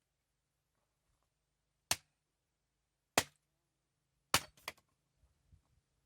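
Five sharp knocks with irregular spacing: single ones about two and three seconds in, then a quick run of three about four and a half seconds in.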